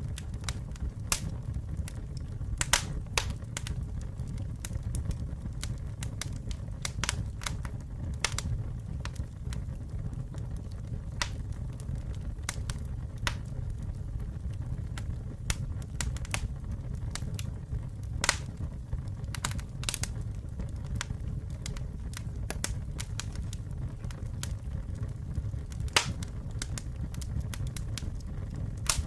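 Campfire burning: a steady low rumble of the flames with sharp crackles and pops at irregular intervals, a few of them noticeably louder.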